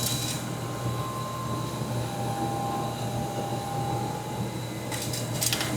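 Steady low hum with a faint high whine, and short light clicks and scrapes about five seconds in, as the engine-oil dipstick is pulled and handled to check the oil level.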